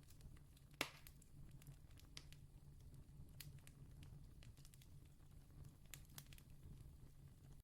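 Faint campfire crackling: scattered small wood pops and snaps over a low steady rumble, with one louder pop about a second in.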